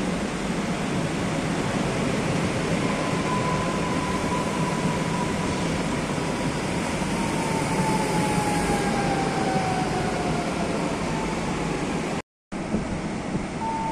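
Electric multiple unit running past along the platform track: a steady rumble and rush of the train with a thin motor whine that slowly falls in pitch. The sound breaks off for a moment near the end.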